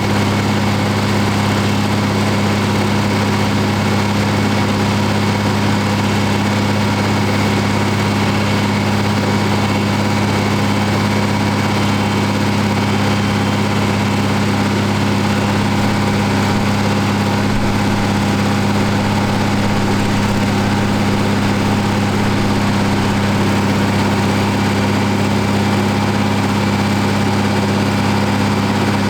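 Deutz-Fahr Agrotron M620 tractor's diesel engine running at steady, unchanging revs while driving a PTO dynamometer for a power test.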